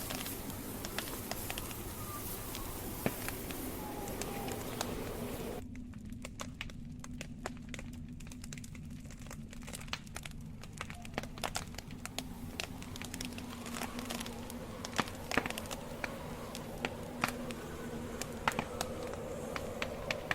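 Wood campfire crackling: frequent sharp pops and snaps of burning logs over a steady hiss. The hiss cuts out suddenly about five and a half seconds in and comes back gradually a few seconds later, while the pops go on.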